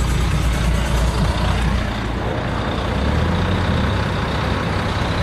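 Car engine and road noise heard from inside the cabin, a steady low rumble as the car drives slowly.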